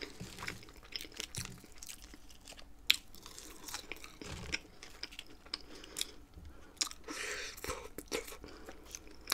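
A person chewing food close to the microphone, with scattered short crunches and mouth clicks.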